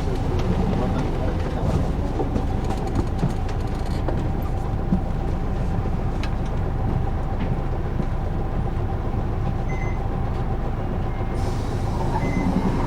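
Isuzu Erga city bus's diesel engine and drivetrain heard inside the passenger cabin: a steady low rumble with an even hum running through it, and a few faint clicks and rattles.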